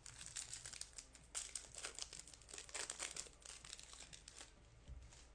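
Rustling and crinkling of 2024 Topps baseball trading cards being handled and flipped through, a quick run of soft slides and flicks that dies down near the end.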